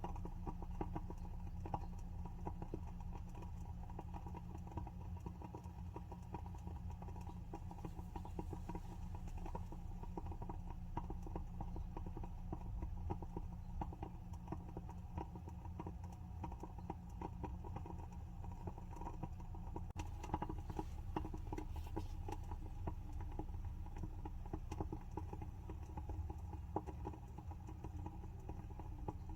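WoodWick candle's wooden wick burning, with a continuous run of small crackles and pops over a steady low hum.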